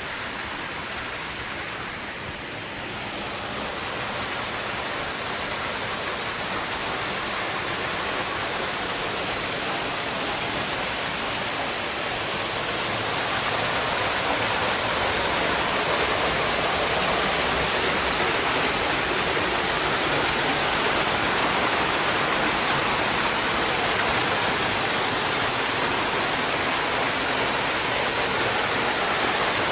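Small waterfall of about 8 feet pouring over rocks into a creek: a steady rush of falling water. It grows louder over the first dozen seconds or so as the microphone comes closer, then holds steady.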